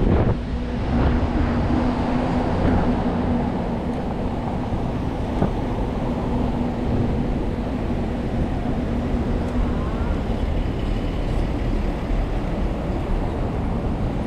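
Steady rumble of city traffic heard from a moving bicycle, with a steady engine-like hum from a nearby vehicle that fades out about ten seconds in.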